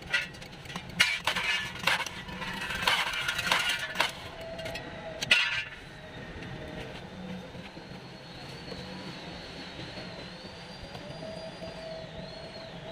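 Metal hand tools and engine parts clinking and knocking several times during work on a water pump, busiest in the first five seconds or so. After that it goes quieter, with a faint wavering high whistle from about eight seconds in.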